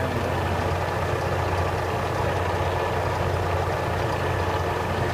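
24-inch Grob 4V-24 vertical band saw running steadily: a constant low hum under an even whir of the drive and blade.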